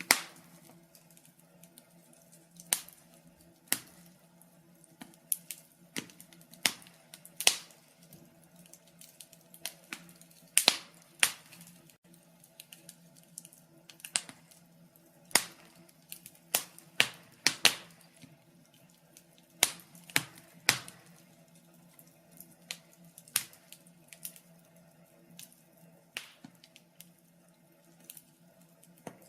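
Wood fire crackling: irregular sharp pops and snaps, some much louder than others, coming a few every couple of seconds. A faint steady low hum runs underneath.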